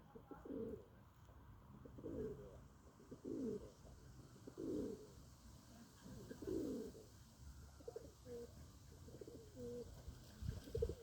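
Low bird calls, each a short falling note, repeated about every one to two seconds, with shorter clipped notes toward the end.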